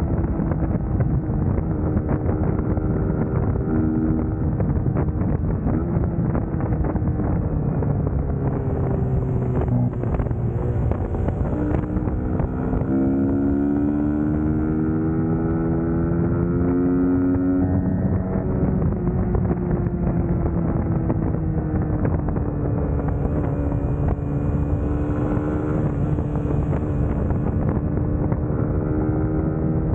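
Suzuki GSX-S150's single-cylinder four-stroke engine running while riding, its note rising in a long pull about halfway through, then dropping and settling. Wind rushes over the microphone throughout.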